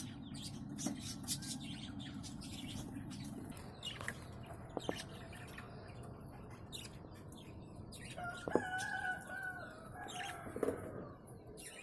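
Yellow cockatiel giving a drawn-out call a little after two-thirds of the way through, among scattered ticks and rustles of birds moving about.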